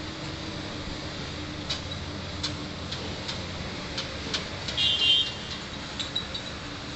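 Diesel engine of a Komatsu PC290 hydraulic excavator running steadily under load, with irregular metallic clicks and clanks. A short, louder metallic clatter with a high ringing squeal comes about five seconds in.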